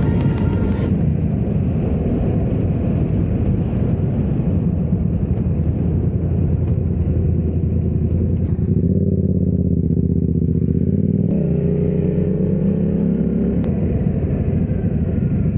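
Motorcycle engine running under way with a rushing wind noise. The engine note shifts about halfway through, then rises slowly.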